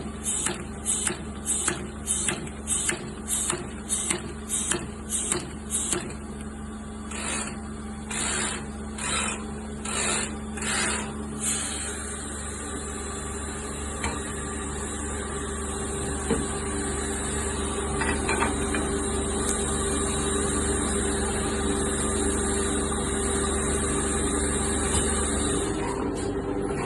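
Semi-automatic capsule filling machine running with a steady hum, at first pulsing with a hissing beat about twice a second, then slower and more unevenly, before settling into a continuous hiss.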